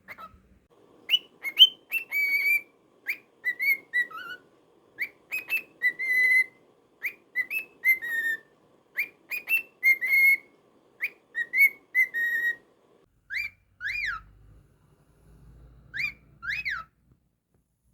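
Pet cockatiel whistling a learned tune: the same short whistled phrase repeated about six times, each about two seconds apart, then two rising-and-falling whistles near the end.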